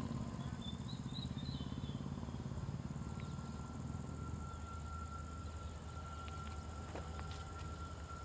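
Outdoor rural ambience: a low rumble that fades after about four seconds, a few short bird-like chirps about a second in, and a steady thin insect-like whine from about three seconds in.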